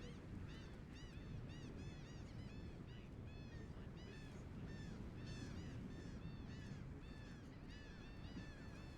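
A flock of birds calling busily, many short rising-and-falling calls overlapping, several a second, over a steady low background rumble.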